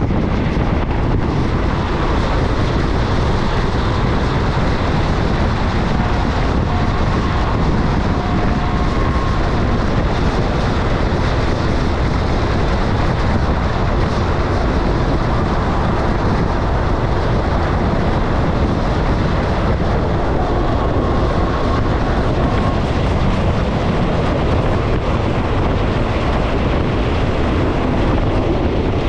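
Passenger train running along the track: a steady, loud rumble and rush, with a few faint, brief higher tones about a quarter of the way in and again past the two-thirds mark.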